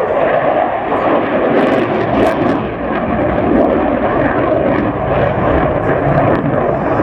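Engine noise from a fixed-wing display aircraft passing overhead: loud and steady.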